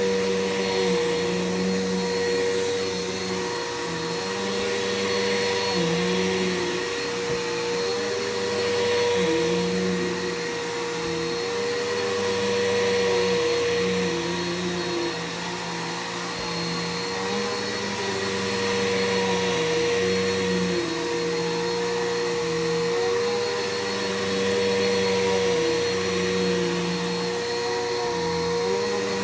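Bissell PowerForce 6583-F bagless upright vacuum cleaner running as it is used on the floor. Its steady motor hum carries lower tones that dip and rise every second or two.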